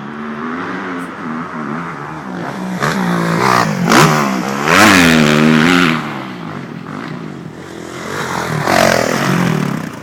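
Dirt bike engine revving up and down with repeated throttle blips, its pitch rising and falling; the loudest, highest rev comes about halfway through, then it drops back and picks up again near the end.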